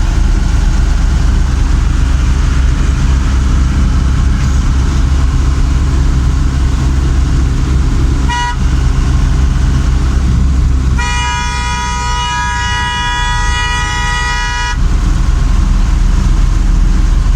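Steady low rumble of a vehicle on the road, with a short horn toot about eight seconds in and a long held horn blast of nearly four seconds a few seconds later.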